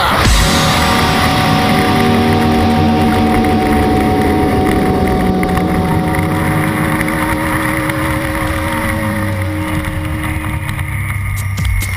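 Suzuki SV650 90-degree V-twin engine heard onboard at track speed, with wind rushing over the microphone. The engine note stays steady, then slowly falls in pitch as the revs ease through a long corner.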